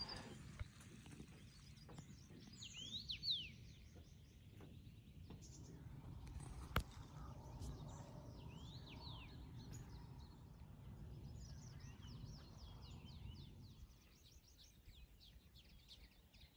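Faint birdsong: a few sweeping chirps about three and nine seconds in, then a quick run of short high notes near the end, over low steady background noise. A single click sounds about seven seconds in.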